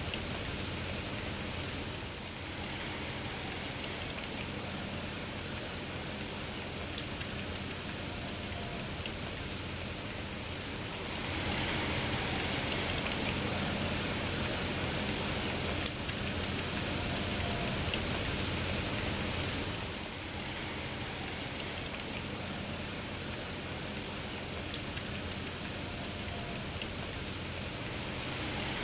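Steady rain falling, a little heavier for several seconds in the middle, with three single sharp drip taps spread across it.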